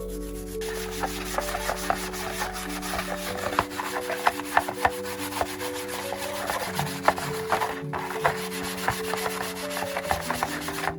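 Irregular scraping and rubbing strokes, as of a rusty fan part being sanded or scrubbed by hand, over background music with slow held notes.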